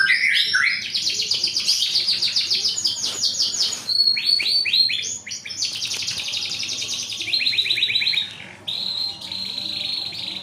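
Two caged songbirds singing against each other in a duet: long, fast trills of rapidly repeated high notes, about ten a second, with a steadier high note near the end.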